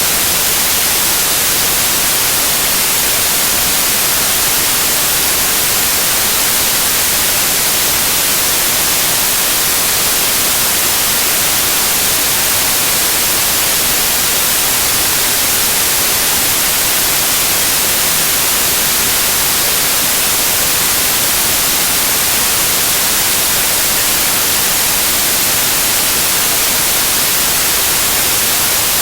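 Loud, steady white noise: an even hiss across the whole range that never changes.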